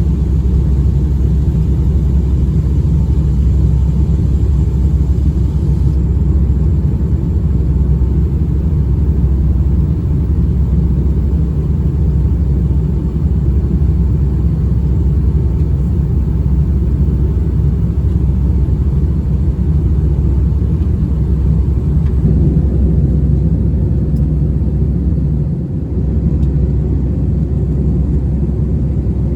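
Steady, low rumble inside the cabin of a Boeing 757-200 airliner, from the engines and airflow, with a faint steady hum.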